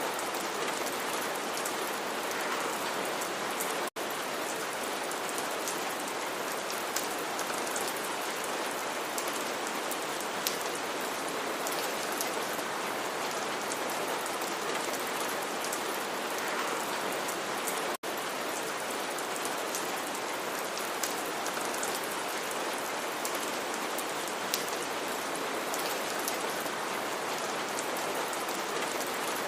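Steady rain falling on a surface, with scattered individual drop ticks. The sound cuts out for an instant twice, about 4 seconds in and near 18 seconds, like loop joins in the recording.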